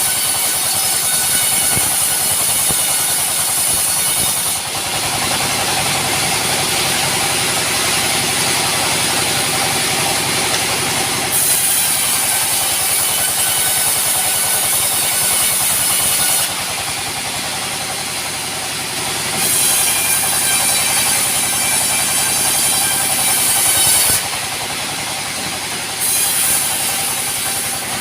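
Sawmill machinery running steadily, with a loud high hiss that cuts out and comes back several times.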